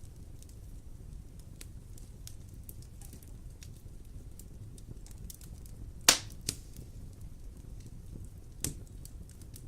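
Wood fire burning with a low steady rumble and scattered crackles, and a sharp loud pop about six seconds in followed by smaller pops.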